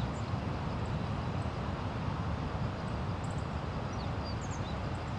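Steady outdoor rush of wind and surf at the beach, with a few faint high bird chirps.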